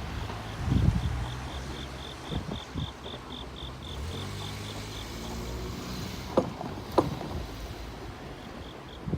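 Low hum of a train moving away along the line. Over it an insect chirps in short, even pulses at about four a second, pausing midway and starting again near the end. Two sharp knocks come about six and seven seconds in.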